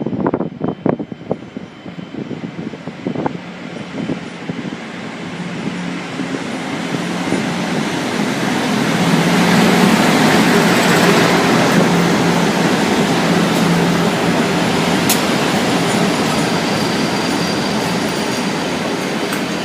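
A train passing through: the rail and wheel noise builds over the first half and then holds loud and steady, with a low hum underneath. Scattered sharp clicks come in the first few seconds.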